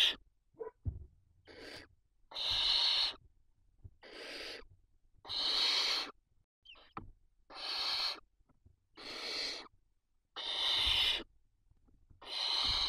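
Barn owl chicks giving their hissing, wheezy begging calls, about eight of them in a row with short gaps between.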